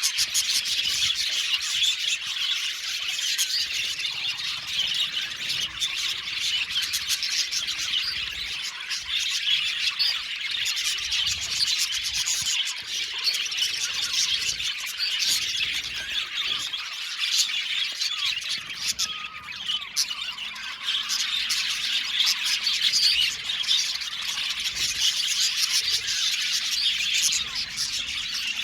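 A flock of budgerigars chattering: many overlapping chirps, warbles and squeaky calls forming a continuous, busy chorus.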